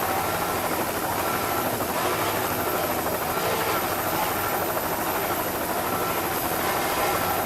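Steady, unbroken engine drone.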